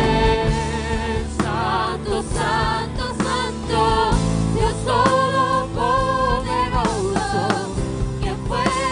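Christian worship song: a voice singing long, wavering held notes over a continuous band accompaniment.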